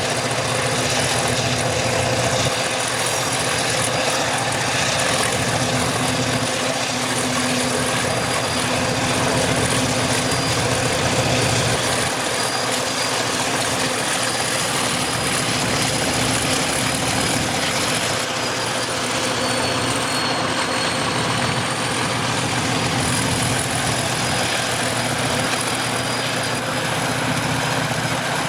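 Diesel locomotives running steadily with a freight train, their engines a continuous low rumble under a thin, steady high-pitched whine that sags slightly in pitch about two-thirds of the way through.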